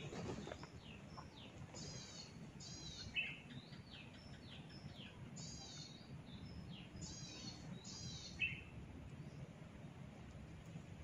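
Small birds chirping: clusters of short, quick, downward-sweeping high calls repeated every second or so, over faint low background noise.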